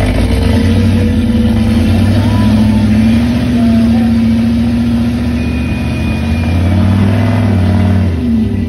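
The 4.8-litre LS V8 of a rock-crawling Jeep Wrangler working under load as it climbs rock ledges, its revs swelling through the middle and easing off near the end.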